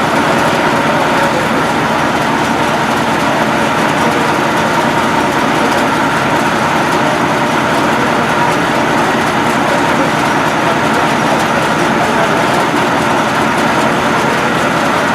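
Train moving along the track: a loud, steady noise of wheels and running gear, even throughout.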